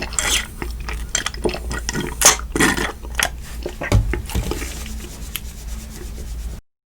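Close-miked eating sounds of Mi Goreng noodles and fried shrimp: wet, squishy chewing with sharp clicks of cutlery against a dish. The sound cuts off suddenly near the end.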